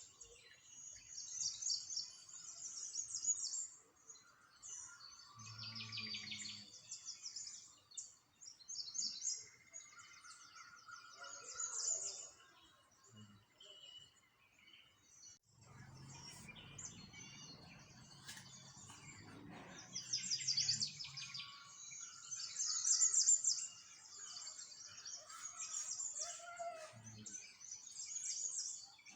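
Many small songbirds chirping and trilling in rapid, overlapping bursts, with a low rumble for about five seconds midway.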